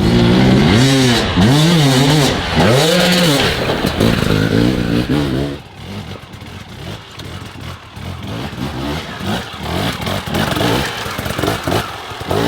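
Dirt bike engine revving hard in repeated rising-and-falling bursts, about four in the first half. It then drops to quieter, choppier throttle with clattering knocks from the bike over rough ground.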